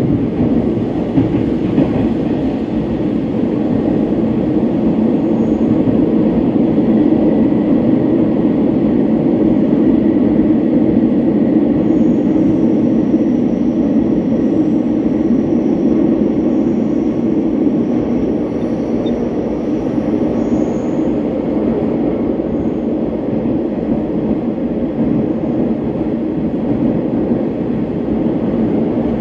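Hanshin electric train running through a tunnel, heard from inside the passenger car: a steady rumble of wheels on the rails.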